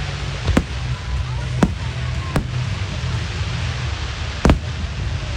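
Aerial firework shells bursting: four sharp bangs at uneven intervals over a steady low background, the loudest bang near the end.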